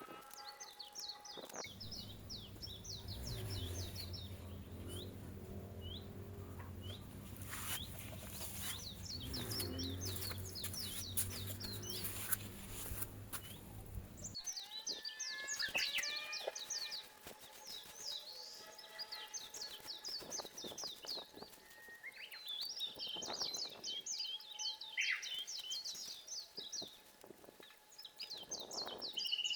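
Songbirds singing outdoors, fast repeated chirping trills. For the first half a low steady hum runs underneath, cutting off abruptly about 14 seconds in.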